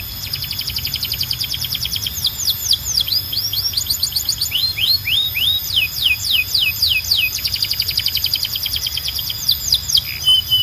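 Canary singing a long song of fast trills of rapidly repeated notes, broken by runs of quick sweeping whistled notes, some rising and some falling.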